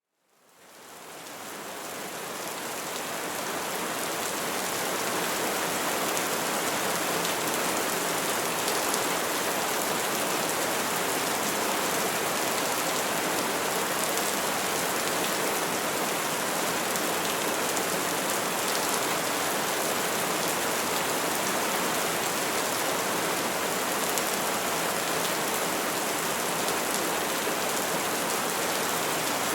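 Steady, calm rain falling on trees, fading in from silence over the first few seconds.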